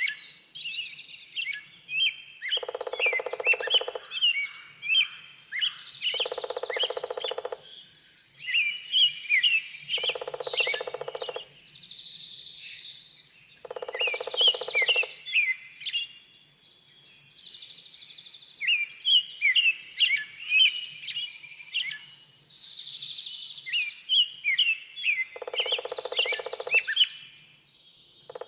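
Several small birds chirping and singing at a bird feeder, with overlapping short chirps and trills. A lower, buzzy call about a second and a half long repeats every few seconds, with a longer gap near the middle.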